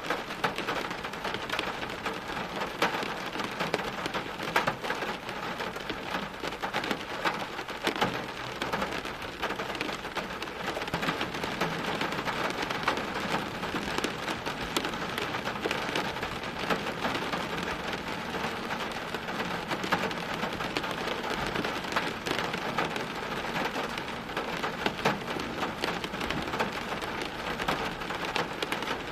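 Steady heavy rain, with many individual drops striking a hard surface close by.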